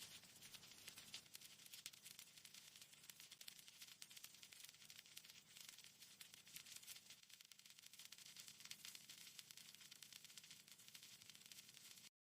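Faint, dense crackling and rustling made of many tiny clicks, with a soft steady hiss underneath.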